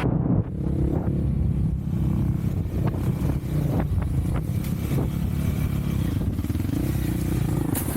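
Off-road vehicle engine running under way, its pitch rising and falling with the throttle, with a few short knocks from the ride over the trail.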